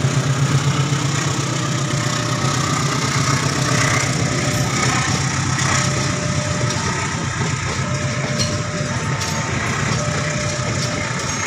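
Passenger train coaches rolling past on the rails, a steady rumbling clatter with occasional sharp wheel clicks. The low drone of the diesel locomotive's engine fades away in the first second.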